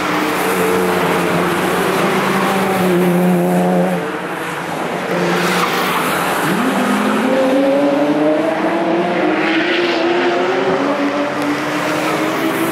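Several car engines at speed on a racetrack, their notes overlapping. One steady engine note drops away about four seconds in, and another rises in pitch as it accelerates from about six and a half seconds on.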